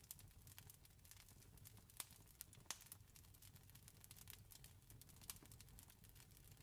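Faint wood fire crackling, with irregular pops and snaps throughout, two louder snaps about two and two and a half seconds in, over a steady low rumble.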